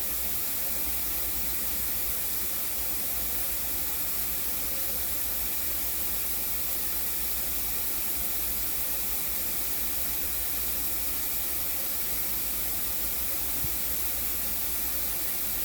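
Shower running in a fine misty spray: a steady, even hiss.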